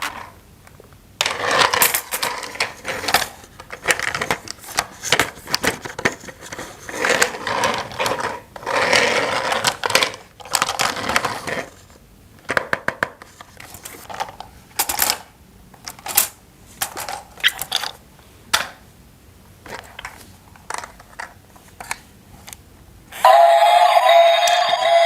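Hard plastic toy pieces clattering and clicking as they are handled and assembled, in irregular bursts. About two seconds before the end a steady electronic sound of a few held tones starts, louder than the clatter.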